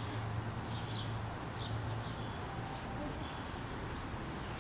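A few short, faint bird chirps over a steady low outdoor rumble.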